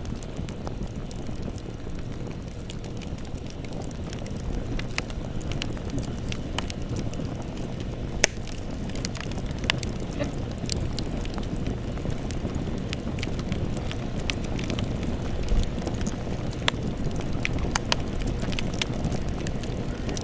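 Campfire burning: a steady low rumble of flames with scattered sharp crackles and pops from the burning wood, one sharper pop about eight seconds in.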